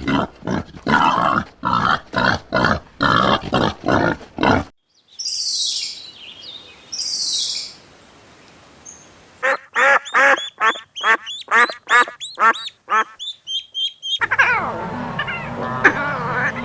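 Farmyard birds calling: a fast run of duck-like quacks for about five seconds, two short hissing bursts, then a quick series of rising pitched calls about three a second. A different animal call starts near the end.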